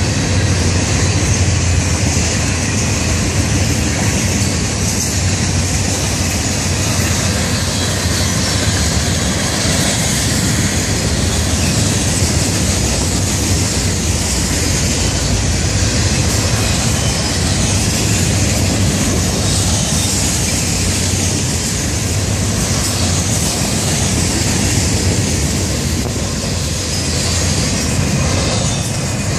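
Florida East Coast Railway freight train rolling past at close range: a loud, steady rumble of steel wheels on the rails.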